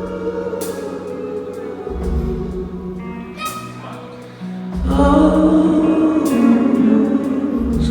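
A rock band playing a slow ballad: sustained sung vocal lines over bass notes, with cymbal crashes every few seconds and a long held vocal note in the second half.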